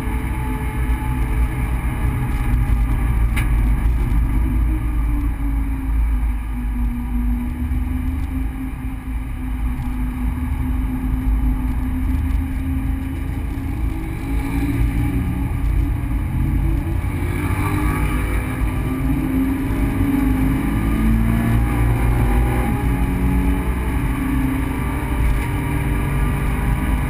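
Subaru BRZ's 2.0-litre flat-four engine heard from inside the cabin over a steady low road and tyre rumble. The engine note falls as the car slows, climbs again from about halfway, drops abruptly a little after three-quarters of the way through as the automatic gearbox shifts up, then climbs again.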